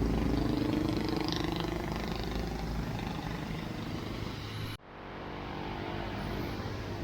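Motor traffic running close by, a low rumble that slowly fades, then cuts off abruptly about five seconds in and gives way to quieter, steady traffic noise.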